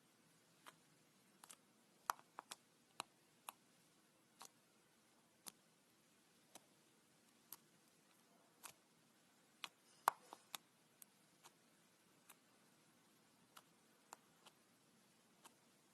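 Slime being played with, giving faint, irregular sharp clicks and pops, about one or two a second. A louder cluster of pops comes about ten seconds in.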